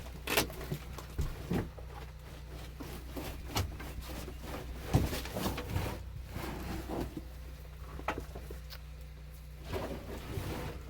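Old automotive carpet being pulled up off the car's floor pan and worked out: scattered rustling, scraping and dull knocks at irregular moments, over a steady low hum.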